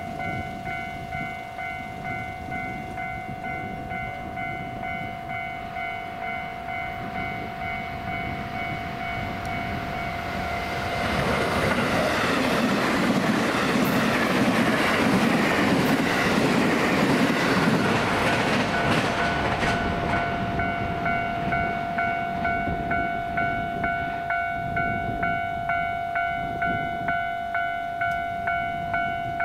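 A level-crossing alarm rings in an even, repeating ding about once a second. About 11 seconds in, a JR West 223/225-series electric train runs through the station at speed without stopping. Its rumble and wheel noise swell over the ringing and fade by about 20 seconds.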